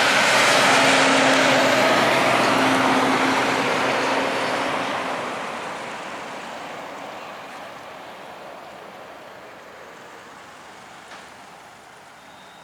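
A heavy-haulage road truck passing close, its engine and tyres loud at first with a steady engine note, then fading steadily as it moves away.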